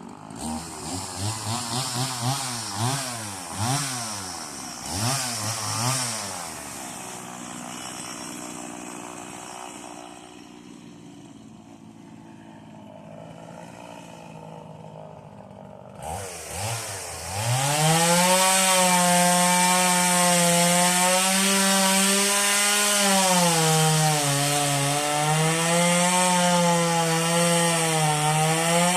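Stihl two-stroke chainsaw revved up and down several times in quick bursts, then idling for about ten seconds. Near the middle it is throttled up and held at full speed cutting wood, its pitch dipping and recovering under load.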